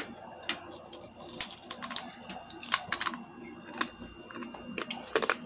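Crispy fried pork crackling being bitten and chewed close up: irregular sharp crunches, some in quick clusters.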